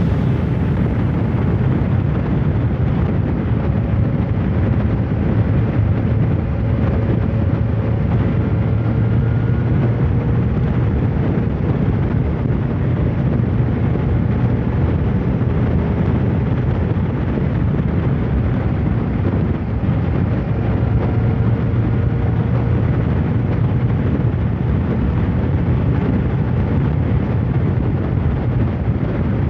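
Kawasaki ZR-7's air-cooled inline-four engine running steadily while riding, a low drone that shifts slightly in pitch, mixed with an even rushing noise.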